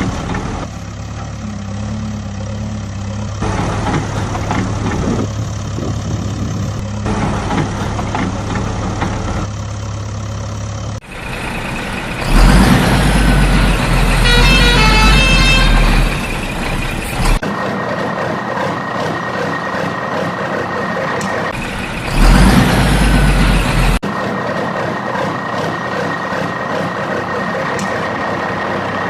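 Heavy truck engine sound running steadily, broken into abruptly cut segments, with two louder stretches about twelve and twenty-two seconds in.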